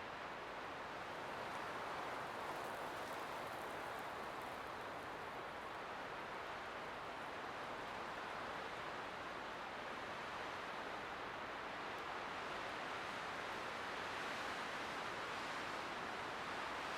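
Light wind blowing steadily, a soft even rush that swells a little about two seconds in and again near the end.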